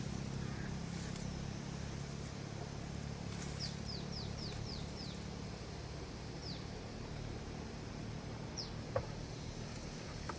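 A bird calling outdoors: a quick run of six short, high, downward-sliding chirps, then two single chirps. Under it runs a steady low hum, with a single sharp knock near the end.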